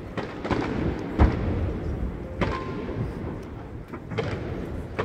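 Aerial fireworks shells bursting: a series of about five booms, the loudest about a second in, over a continuous rumble.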